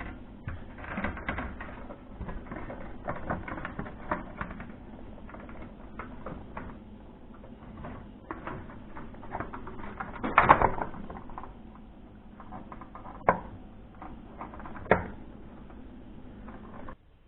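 Handling noise as a fluorescent light fixture's cover is fitted back on: irregular rattling and scraping, a louder clatter about ten seconds in, then two sharp clicks a couple of seconds apart.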